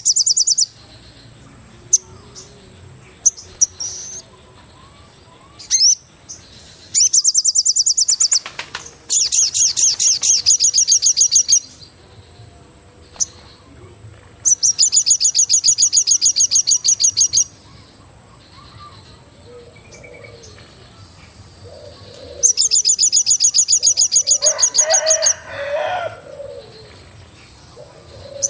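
Forest wildlife, heard as birds: a high, rapid pulsing trill repeats in loud bursts of one to three seconds, five times. Softer, lower calls come in between them toward the end.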